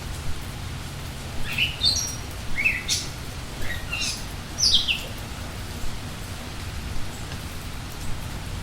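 Songbirds singing over steady rain: a quick run of short chirping and sliding notes from about one to five seconds in, then mostly just the rain with an occasional faint chirp.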